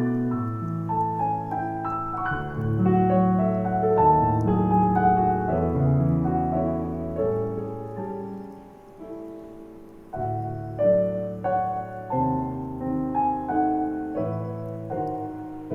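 Solo piano playing a calm Christmas song arrangement, melody over held chords, thinning out about nine seconds in before picking up again.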